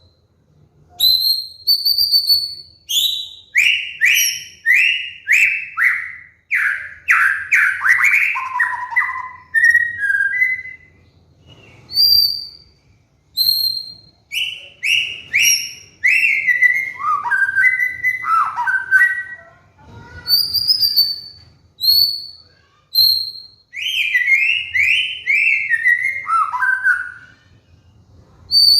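White-rumped shama (murai batu) singing: single clear high whistles alternating with fast runs of repeated down-slurred notes that step lower in pitch, in phrases a few seconds long separated by short pauses.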